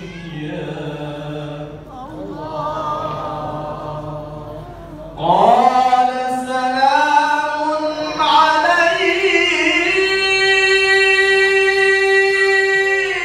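A male qari reciting the Quran in a melismatic chanted style. A softer, winding line gives way at about five seconds to a sudden louder rising phrase, which climbs into a long held high note over the last few seconds.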